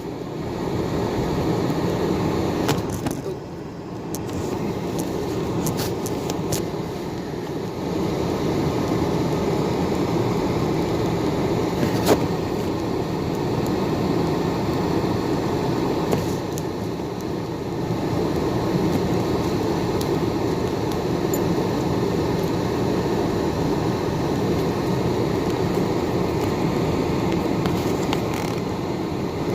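Steady road and engine noise inside a moving car, with a single sharp click about twelve seconds in.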